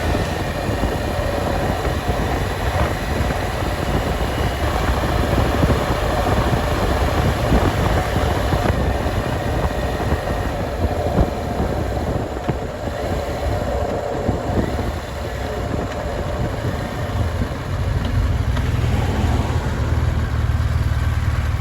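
BMW R1200GS Adventure flat-twin motorcycle being ridden: steady engine rumble mixed with wind rush.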